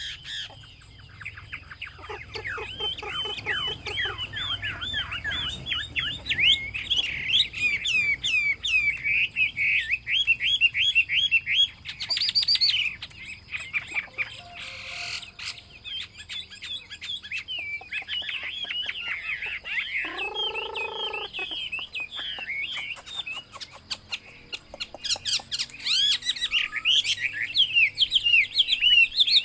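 Chinese hwamei (melodious laughingthrush) singing a long, rapid, varied song of slurred whistled notes and fast trills. About twenty seconds in there is one lower note lasting about a second.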